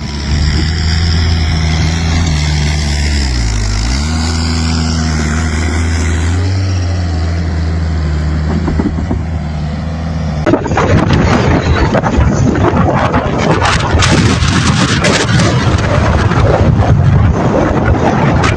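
A vehicle engine running steadily, its pitch dipping and recovering about three and a half seconds in. After about ten seconds it cuts abruptly to a loud, rough rushing noise.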